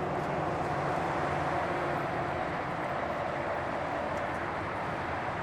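Steady vehicle noise, a continuous even rush with no distinct events.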